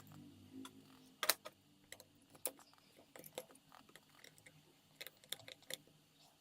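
Faint, irregular small clicks and taps of hand tools and phone parts being handled during a phone repair, a few sharper ticks among them.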